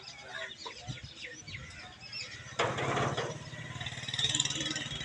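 Poultry and birds calling in short chirps, then about two and a half seconds in a sudden short hiss-like burst, after which a steady low rhythmic engine beat runs on under the calls.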